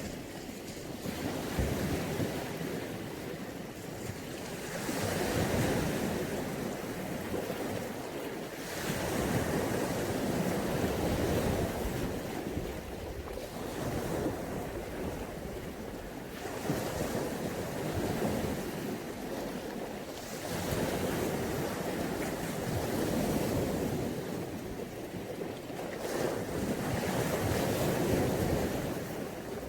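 Mediterranean Sea waves breaking and washing up the shore, a rushing noise that swells and falls back about every three to four seconds.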